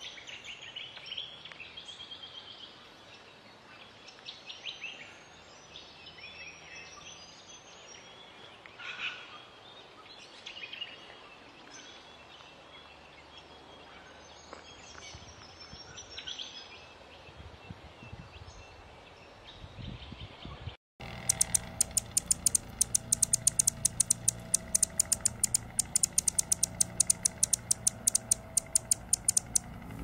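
Small birds chirping with scattered short, high calls and twitters. About two-thirds of the way through, the sound cuts out briefly. A different recording follows: a fast, even run of sharp high ticks, about five a second, over a low hum.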